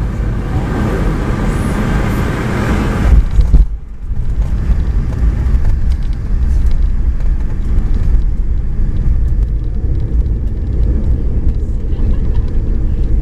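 Boeing 717-200 cabin noise heard from a passenger seat: a loud steady rush of engine and airflow that breaks off abruptly just under four seconds in, followed by a lower, steady rumble.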